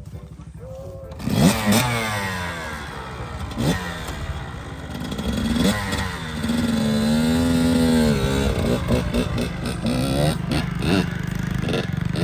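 Small dirt bike engine idling, then revved hard about a second in and ridden: the pitch climbs and drops again and again as the throttle opens and closes, with a few knocks and clatters along the way.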